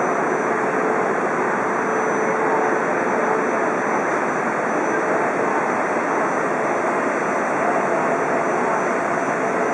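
Steady rushing hum of E4 Series Shinkansen trains at the platform as two sets creep toward each other for coupling, with a faint steady tone over it.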